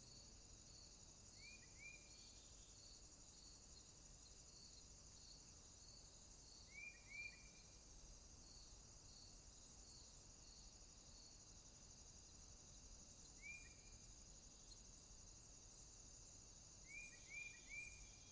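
Faint insect chorus: a steady high trill and a regular chirp repeating about two to three times a second. A few short high chirps come in clusters of two or three, about four times.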